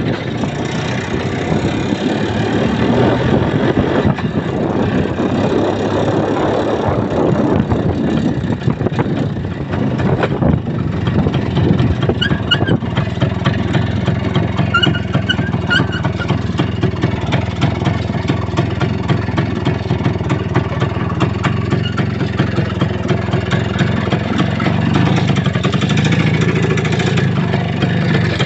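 Vehicle engine running steadily while under way, with a fast, even pulsing that grows more distinct partway through; a few faint high chirps come in about twelve to sixteen seconds in.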